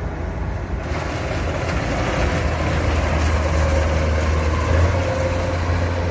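Rice combine harvester's diesel engine running steadily with a deep drone and the rush of its working machinery, growing a little louder after the first second.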